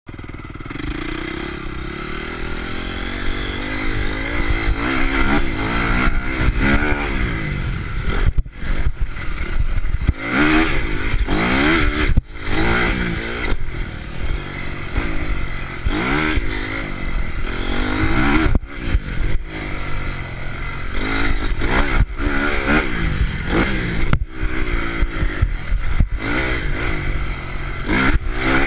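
Honda CRF motocross bike's four-stroke single-cylinder engine revving hard and then easing off again and again, with the throttle snapping shut every few seconds as the bike is ridden around a track.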